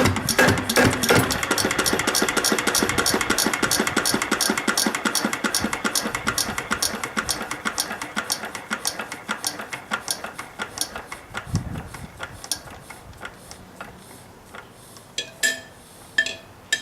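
Yanmar NK2 single-cylinder diesel stationary engine running with even beats that slow and fade as it winds down to a stop, followed by a few light clicks near the end.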